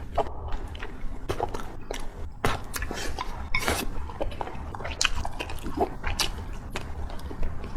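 A person chewing food close to the microphone, with irregular wet smacks and clicks of the mouth, over a steady low hum.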